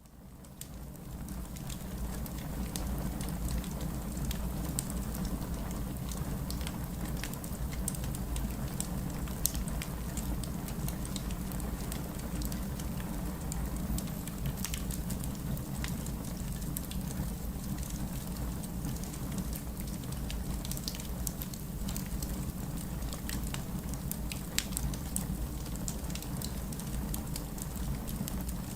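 Fireplace crackling with frequent sharp pops over a steady hiss of rain and a low rumble, fading in over the first couple of seconds.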